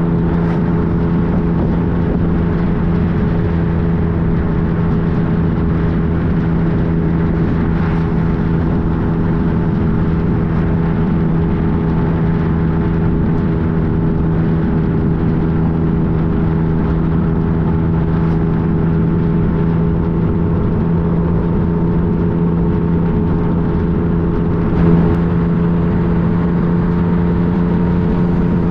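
The inline three-cylinder engine of a 2015 Yamaha FJ-09 motorcycle, running at a steady, unchanging speed while cruising. There is one brief louder sound near the end.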